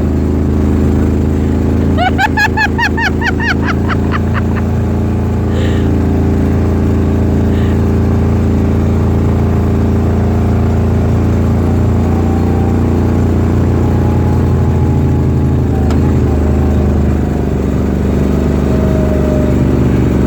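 A vehicle engine runs steadily at an even pitch throughout. About two seconds in, a voice briefly cuts in with quick, repeated syllables.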